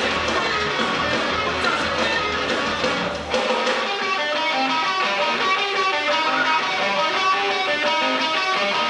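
A live rock band playing loud, guitar-led music. About three seconds in, the bass and low end drop out, leaving electric guitar picking a run of short notes.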